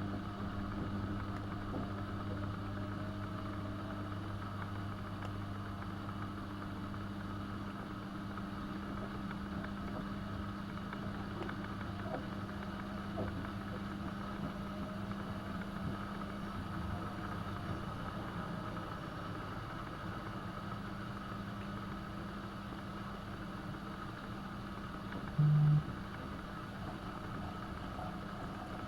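AEG Öko-Lavamat 72520 washing machine running mid-way through a hot wash, a steady motor hum. The deepest part of the hum stops about eight seconds in. A short, loud low buzz comes near the end.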